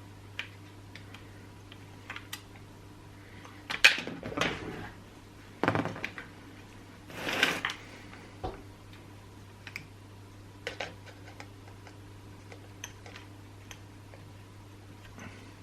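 Scattered small clicks and knocks of chainsaw parts and tools being handled during reassembly, with a few louder clatters about four and six seconds in and a short scrape near seven and a half seconds, over a steady low hum.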